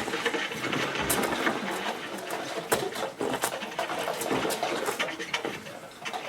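Experimental improvised music from two saxophones and live electronics: a dense, noisy texture of rapid clicks and rattles with no clear melody.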